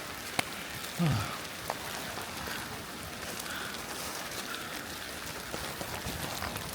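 Heavy rain falling steadily, with sharp clicks of single drops striking close by. About a second in, a short, louder sound falls quickly in pitch.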